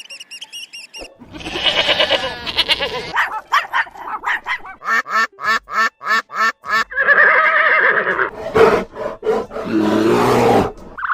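A run of loud animal calls: one long call about a second in, a quick series of short repeated calls, then two longer drawn-out calls near the end.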